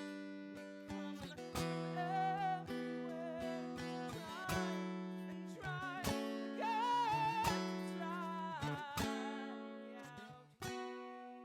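Acoustic guitar picked and strummed, with a voice singing a wavering melody line above it.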